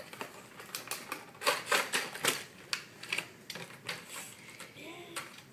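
Cardboard toy box and its packaging being opened by hand: a run of irregular clicks, crackles and rustles.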